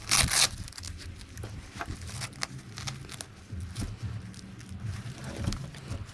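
A Velcro holster strap ripped open in the first half second, then scattered clicks and rustles as the nylon holster and airsoft pistols are handled, over a low steady rumble.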